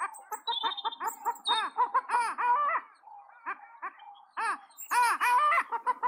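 Birds calling in quick runs of short, rising-and-falling calls, with faint high chirps of small songbirds over them.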